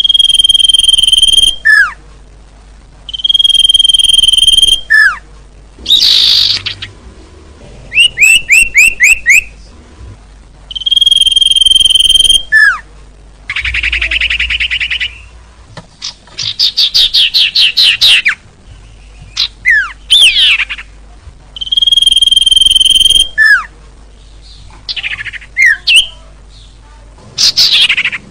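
Recorded bird-lure calls for small songbirds, played as a loop. Loud calls alternate: a long steady whistle that ends in a quick falling note, bursts of fast chattering trills, and sharp down-swept notes, each pattern recurring every few seconds.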